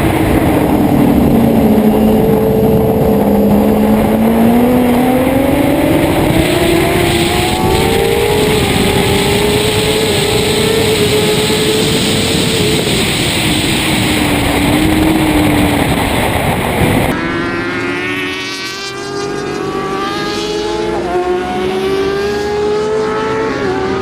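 Racing superbike engines heard from a rider's helmet camera: the engine note rises and falls with throttle and speed under heavy wind rush. About 17 seconds in, the sound cuts to a cleaner recording of motorcycle engines revving up and down with less wind noise.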